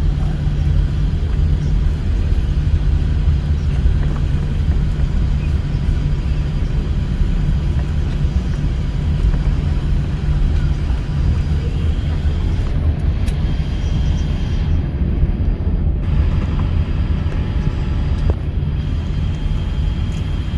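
Steady low rumble of an airliner heard from inside the passenger cabin: engine and airflow noise with no distinct events.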